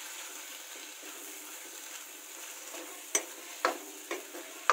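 Soaked sabudana (tapioca pearls) sizzling softly as they roast in ghee in a metal kadai, stirred with a spoon; near the end the spoon knocks and scrapes against the pan a few times.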